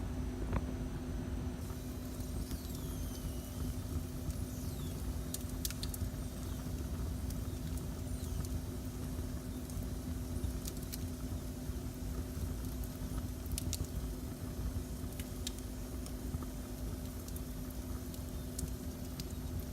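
Fire burning in a fireplace: a steady low rumble with scattered sharp crackles and pops, over a steady low hum.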